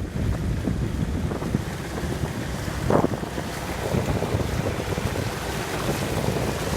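An off-road vehicle's engine running while it drives over rough ground, with wind buffeting the microphone; there is a brief louder swell about three seconds in.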